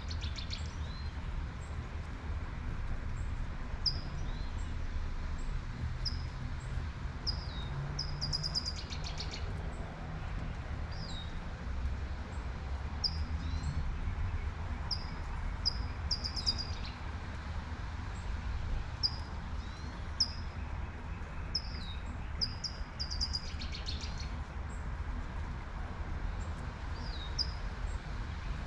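A songbird repeating a short, high chirping phrase about every four seconds over the steady hiss of light rain, with a low rumble of distant traffic underneath.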